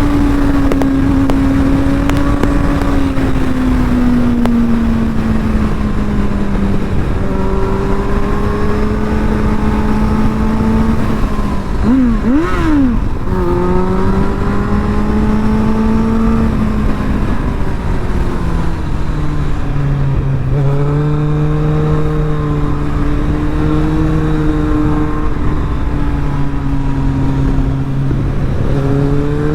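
Kawasaki Z800's inline-four engine through an Arrow titanium aftermarket exhaust, running under way: its pitch sinks and climbs with the throttle and gear changes, with two quick throttle blips about twelve seconds in.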